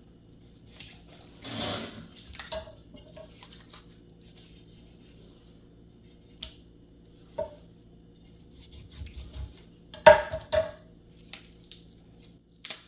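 Scattered knocks and clatter of kitchen tools against a cutting board and pot as a raw chicken is cut into pieces. There is a longer rustling noise about two seconds in, and the sharpest, loudest knock about ten seconds in.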